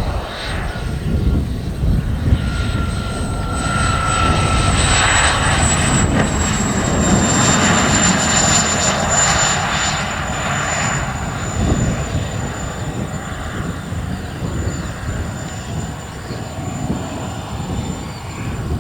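Model jet's turbine engine running, with a high thin whine that drifts slightly lower over a rushing noise that swells in the middle.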